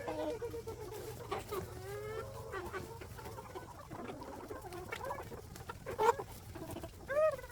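Chickens clucking, a run of short calls with a couple of louder calls near the end.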